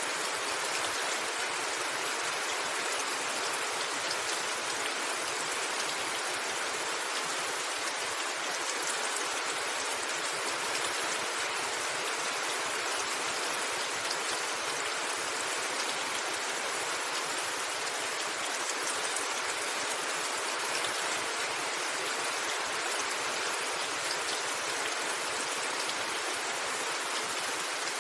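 Steady rain falling on a rooftop: an even hiss with faint patter of individual drops.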